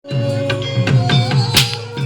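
Gamelan music for an ebeg horse dance: ringing metal-keyed tones over a steady low pulse, a wavering melody line, and sharp percussive strikes, the loudest about one and a half seconds in.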